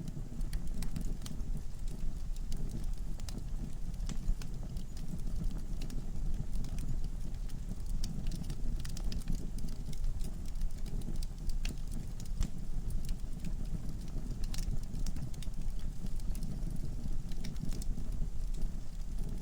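Wood fire burning in a fireplace: a steady low rumble of flames with frequent irregular crackles and sharp pops from the logs.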